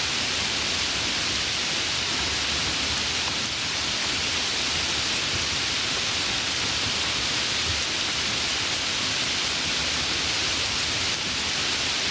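Heavy rain falling as a steady, even hiss with no distinct drops or thunder.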